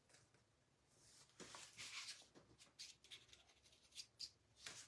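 Faint, dry scratching and rubbing strokes, starting about a second in: a tool being worked over a painted picture frame to distress the paint.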